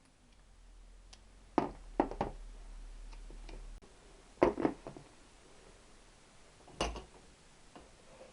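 Light clinks and knocks of metal motorcycle engine parts and tools being handled on a workbench: a few sharp taps in small clusters, with a low hum in the background that cuts off about a third of the way in.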